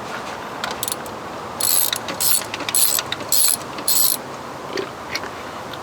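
Ratchet wrench being worked back and forth: five short runs of ratcheting clicks, about two a second, after a few faint clicks near the start.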